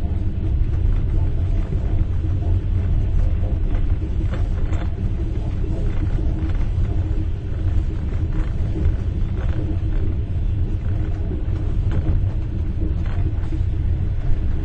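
Inside a moving train compartment: a steady low rumble of the train running, with now and then a spoon faintly tinkling against a cup.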